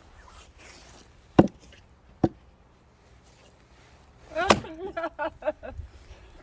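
Axe blows into firewood: three sharp strikes, about a second and a half in, just after two seconds, and about four and a half seconds in, the last followed by a brief stuttering sound.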